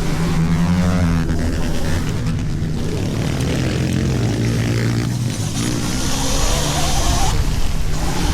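Small pit bike engines revving, their pitch rising and falling, under a steady rush of wind noise.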